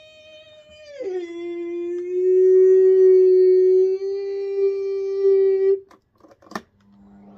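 A long howling call, held on one note, dropping in pitch about a second in and then held steady for almost five seconds. A sharp click follows near the end.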